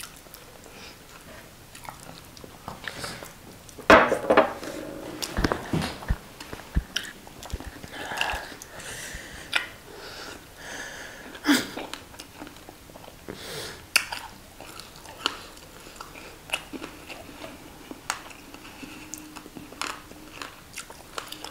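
Close-up mouth sounds of eating fried tilapia: irregular wet chewing smacks and biting clicks as the fish and its bones are chewed, with a few louder bites.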